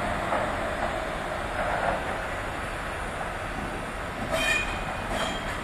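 Passenger train rolling slowly on the station tracks with a steady rumble, and brief high wheel squeals about four and a half seconds in and again near the end.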